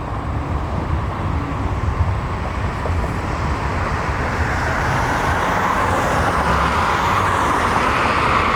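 Bombardier CRJ regional jet taking off, its rear-mounted turbofan engines a steady rushing roar that grows gradually louder.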